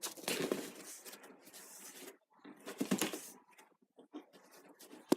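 A dog at play close to the microphone: irregular scuffling and rustling noises, loudest about three seconds in.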